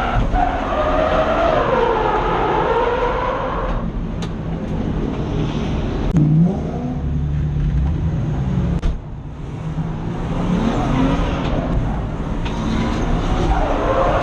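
BMW M50B25 2.5-litre straight-six on aftermarket exhaust manifolds, revving hard through a drift, heard from inside the car. The revs rise and fall repeatedly: high for the first few seconds, dropping about four seconds in, dipping briefly near the middle, then climbing again near the end.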